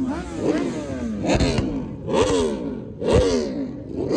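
A vehicle engine revved in repeated throttle blips, about one a second, each rising in pitch and falling back.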